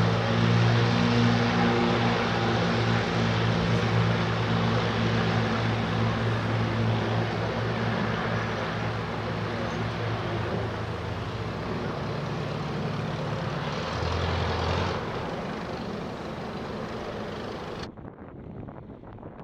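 Light propeller aircraft's piston engine running with a steady hum, gradually getting quieter as it moves off. It cuts off abruptly near the end, leaving wind noise on the microphone.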